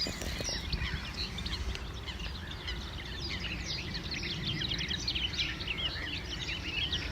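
A spring chorus of songbirds: many overlapping chirps, trills and whistles from several birds at once, over a low steady rumble.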